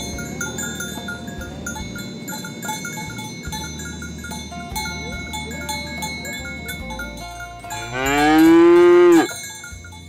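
A cow mooing once, loudly, for about a second and a half near the end, its pitch rising slightly then dropping as it cuts off. Underneath, light background music of short bell-like notes.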